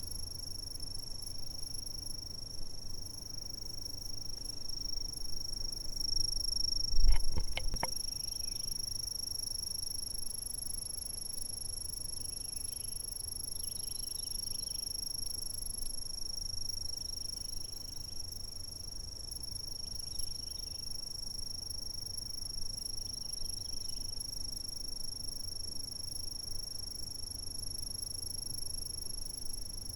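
Insects calling in a steady, unbroken high-pitched trill. A brief knock or thump comes about seven seconds in and is the loudest sound.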